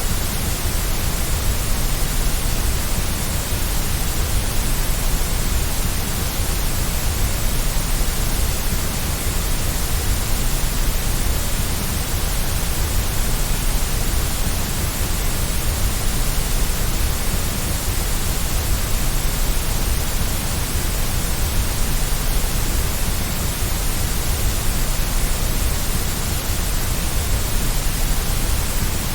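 Steady white noise as a baby sleep aid: an even, unchanging hiss across all pitches, with a low rumble underneath.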